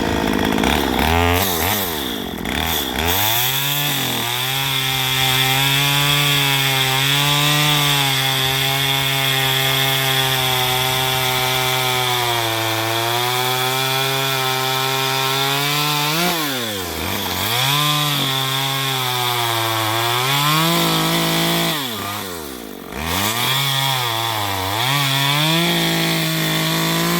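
Chainsaw running at high revs while cutting through a log. In the second half the throttle is let off and opened again several times, so the engine pitch drops and climbs back.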